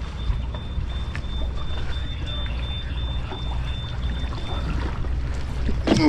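A boat's engines running with a low, steady rumble, joined by a thin steady high whine that stops about three-quarters of the way through. A short louder sound with a falling pitch comes near the end.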